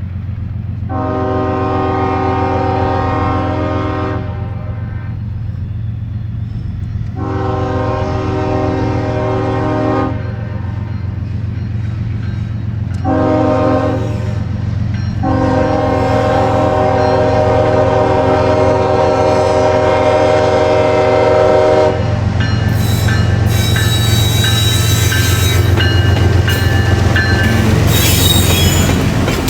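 Diesel locomotive air horn sounding the grade-crossing pattern, long, long, short, long (the last blast held about seven seconds), over the steady rumble of the locomotive. From about 22 seconds in the horn stops, and wheel squeal and rail noise of the passing freight cars take over.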